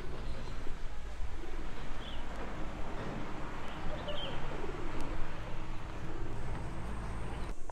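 Birds calling: a low dove-like cooing and two short high chirps, about two and four seconds in, over a steady low rumble.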